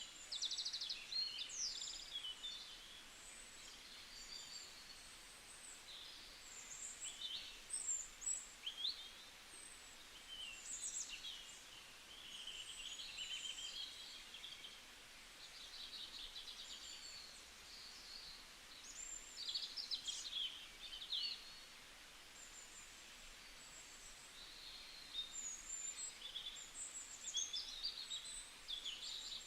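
Songbirds singing, a busy overlapping mix of short chirps, trills and quick whistled sweeps coming in bursts, over a faint steady hiss.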